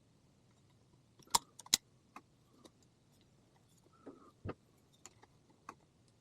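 Scattered clicks and clinks of small metal parts and screws being handled while fitting a peppermill grinder mechanism, the two sharpest about a second and a half in, then a duller knock and a few lighter taps.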